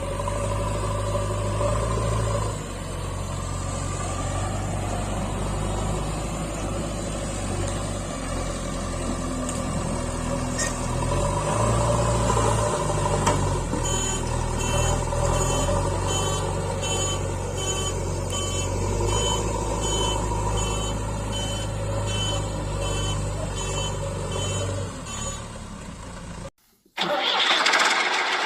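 Diesel engines of a JCB 3DX backhoe loader and tractor running, rising and falling in level as the machine works, with a fast repeating high-pitched beeping through the middle. Near the end the sound cuts out abruptly and changes to a harsher, noisier engine sound.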